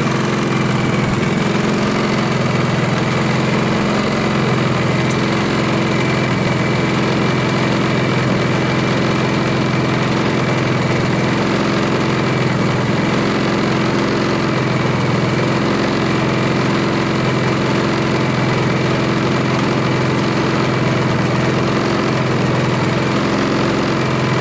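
Champion 4500 W dual fuel inverter generator running on gasoline at a steady low idle with no load, in eco mode, on its first break-in run.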